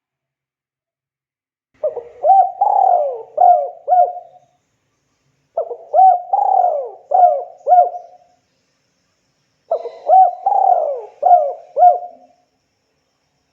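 Spotted dove (tekukur) cooing: three phrases of four or five coos each, a few seconds apart.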